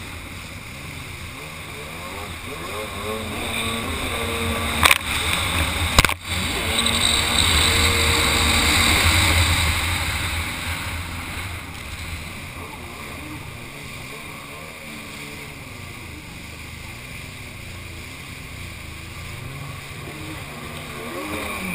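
Kawasaki 800 SX-R stand-up jet ski's two-stroke twin engine running on the water. It revs up and gets louder for several seconds, then eases back to a lower, steady run, with water rush and wind on the microphone. Two sharp knocks come about five and six seconds in.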